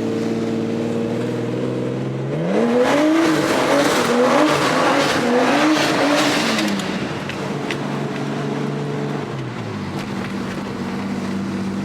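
Car engine idling, then revved up about two seconds in and held with the revs wavering through a slide on wet pavement, with tyre noise over it. It drops back to idle near the end.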